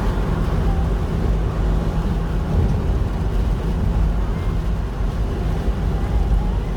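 Steady low rumble inside a moving car driving through strong, gusty wind: road, engine and wind noise through the cabin.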